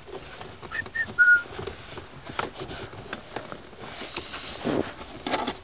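Three short whistle-like notes about a second in, the last a little longer and lower, among scattered light knocks and rustling from handling car interior parts.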